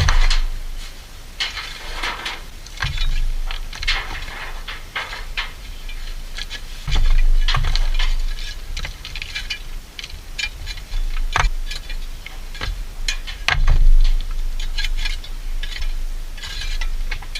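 Hard objects clattering and clinking irregularly as they are handled, with occasional low rumbling bursts.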